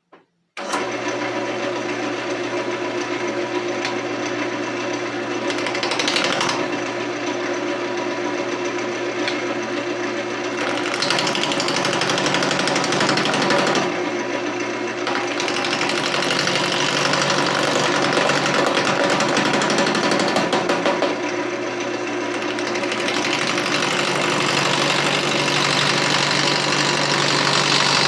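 Wood lathe spinning a mulberry log with a steady motor hum, starting suddenly about half a second in, while a turning gouge cuts into the wood with a rough, scraping noise. The cutting noise comes and goes as the tool is pressed in and eased off: the log is being roughed down toward round.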